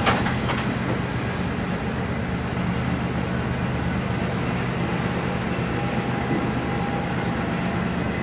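CSX double-stack intermodal freight train rolling past steadily, a mid-train diesel locomotive running among the container cars, with two sharp clicks near the start.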